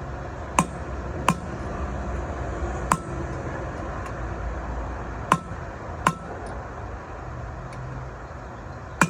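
Hammer striking a steel punch set against the outer bearing race inside a truck's rear wheel hub: six sharp metallic taps at uneven intervals, with a brief ring after some, working the stuck race out of the hub.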